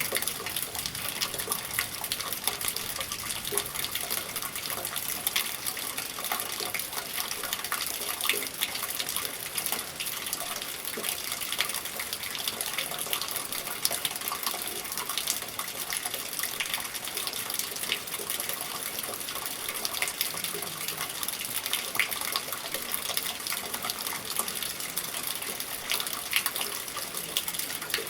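Steady rain with water running and splashing from a gutter, with many small drips and splashes ticking throughout.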